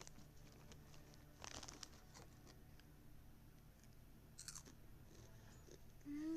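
Crunching bites and chewing of spicy crunchy chips, quiet, with two sharper crunches about a second and a half in and again after four seconds. Near the end comes a short pitched note that rises and then falls.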